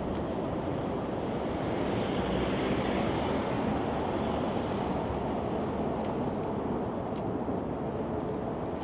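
Steady rushing noise of strong wind and street traffic, swelling a little about two seconds in.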